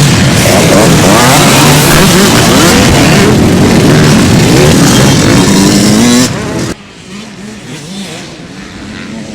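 Several motocross bikes at full throttle, very loud, their overlapping engine notes rising and falling as they rev. A little over six seconds in the sound drops abruptly to a much quieter engine hum.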